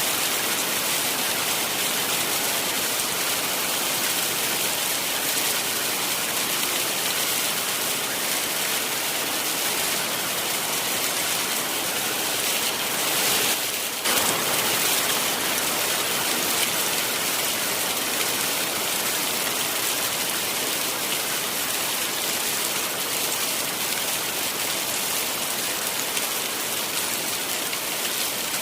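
Heavy rain falling steadily, a dense even hiss of drops on surfaces, with a brief swell and a momentary break about halfway through.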